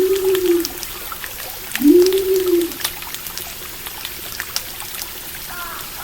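Running stream water with scattered sharp campfire crackles. Twice, about two seconds apart, a low hooting call rises and falls, and near the end a bird's short descending chirps begin.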